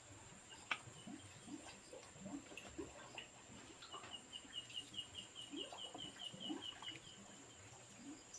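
Faint wildlife sounds: a rapid run of evenly spaced high chirps, about five a second for some three seconds midway, over scattered short low calls and a steady thin high tone.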